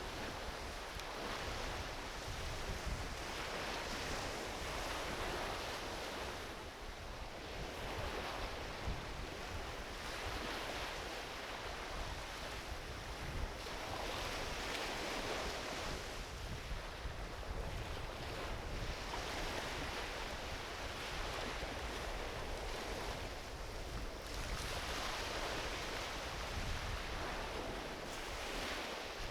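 Ocean waves washing onto a beach, swelling and easing every few seconds, with a low rumble of wind on the microphone.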